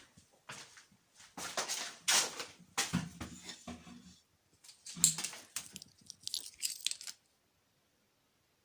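Crunching and crackling of debris, an irregular run of scrapes and crackles that stops abruptly about seven seconds in.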